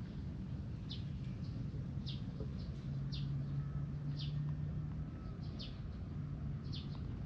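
A bird repeating a short, high, downward-sweeping call about once a second, over a low steady hum that grows a little louder in the middle.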